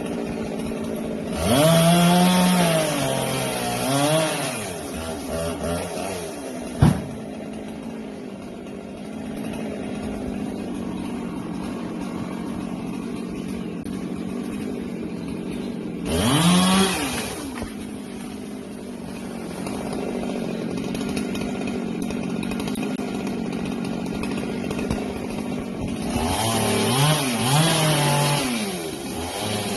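Husqvarna 390XP two-stroke chainsaw idling, opened up to full revs three times: about two seconds in for a few seconds, briefly around sixteen seconds, and again near the end, the pitch wavering as it runs. A single sharp knock about seven seconds in.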